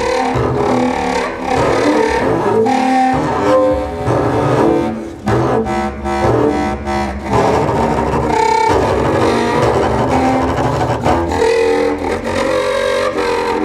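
Contemporary chamber music for clarinet and double bass: low, dense sustained notes from the bowed double bass and the low clarinet, with the notes shifting step by step and short breaks about 5 and 7 seconds in.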